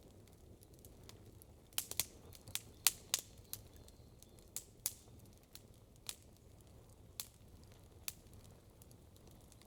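Wood campfire crackling: irregular sharp pops and snaps, a quick cluster of them about two seconds in and scattered single pops after, over a faint low rumble of the burning fire.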